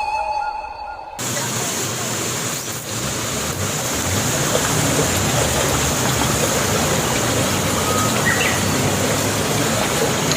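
A tune stops abruptly about a second in, replaced by steady rushing outdoor background noise with a thin high whine running through it and a few faint chirps.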